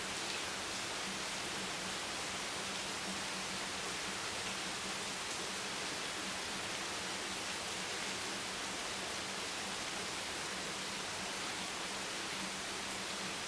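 Steady, even hiss of rain, with no single drops, gusts or other events standing out, and a faint low hum underneath.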